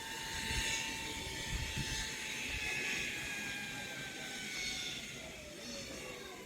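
Zip line trolley running along the steel cable: a steady whine that slowly drops in pitch as the rider slows, falling faster near the end.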